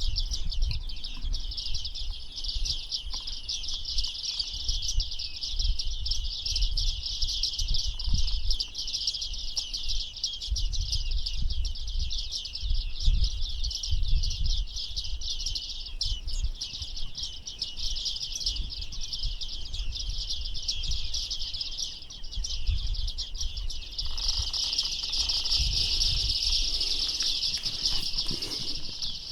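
Small birds chirping in a steady, dense high-pitched chorus, growing fuller near the end, with wind rumbling on the microphone.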